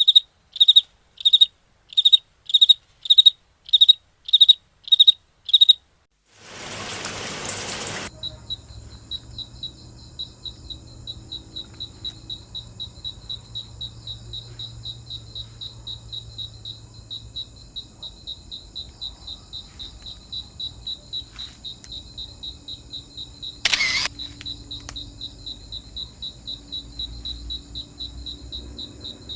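Crickets chirping: at first a high chirp about twice a second, then, after a short burst of broad noise, a steady, faster pulsing chirp that carries on, with one more brief noisy burst about three-quarters of the way through.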